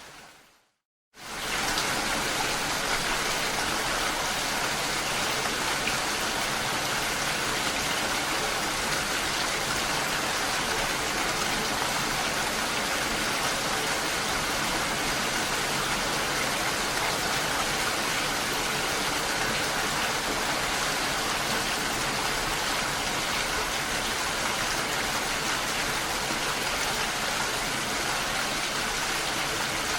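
Steady rain falling. It fades out right at the start, then after a short silence of under a second it comes back abruptly and stays even.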